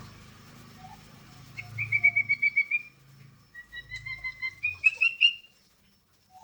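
Sooty-headed bulbul (kutilang) calling in two quick runs of clear whistled notes, the second run climbing in pitch at its end.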